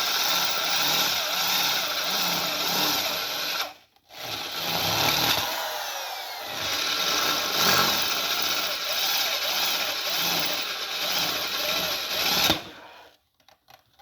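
Hand-held power drill running under load in the cast iron water jacket of a 331 Hemi block, working holes for crack-repair pins. It runs about four seconds, stops for a moment, then runs about eight more seconds and cuts off suddenly.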